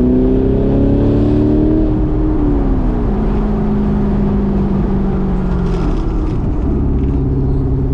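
V8 car engine pulling under acceleration. Its pitch climbs, drops sharply about two and a half seconds in, holds steady, then drops again about six seconds in, like upshifts through the gears.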